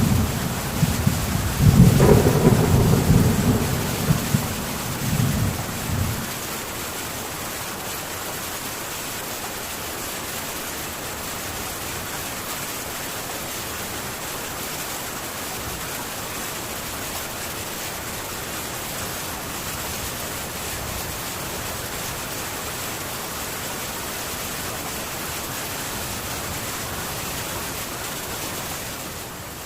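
Thunder rumbling over heavy rain on a metal tin roof. The rumble dies away about six seconds in, leaving the steady rain.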